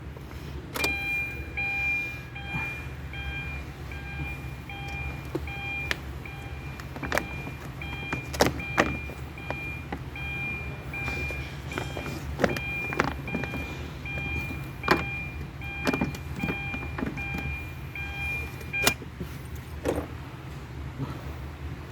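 A car's electronic warning chime beeping steadily about twice a second, stopping a few seconds before the end, over a low steady hum. Scattered sharp clicks and knocks sound throughout from work on the car door.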